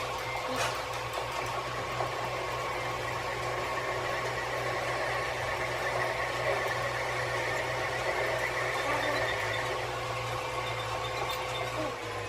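A machine running steadily, a constant hum with a few steady tones, and a couple of sharp clicks near the start.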